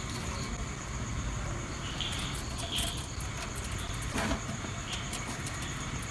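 Short bird chirps, four or five of them, over a steady background hiss and a constant high-pitched drone, with a brief knock about four seconds in.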